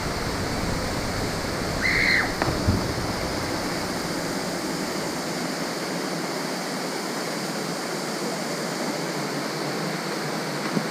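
Waterfall rushing steadily. About two seconds in there is a short high-pitched cry, followed by a brief knock.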